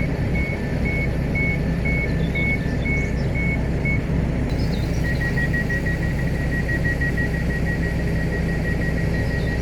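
Train door warning beeps: a two-tone beeping that repeats about twice a second, then, about five seconds in, a faster run of beeps at a single pitch, typical of doors closing before departure. A low steady engine hum runs underneath.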